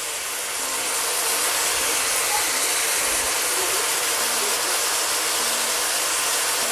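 Mixed vegetables sizzling in a hot frying pan, a steady hiss.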